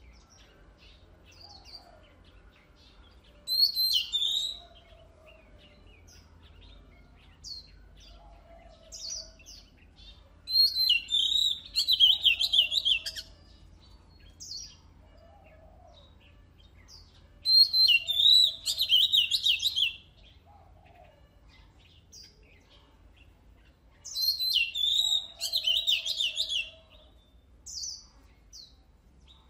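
Oriental magpie-robin singing: loud bursts of rapid, warbling high phrases about every six or seven seconds, with short single whistled notes between them.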